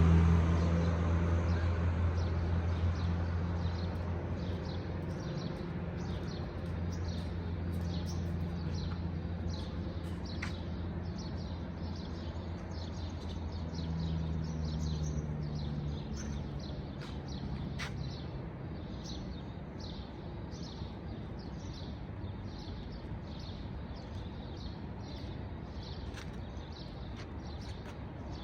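Small birds chirping over and over in a dawn chorus, over a steady low rumble that is loudest at the start and fades during the first few seconds.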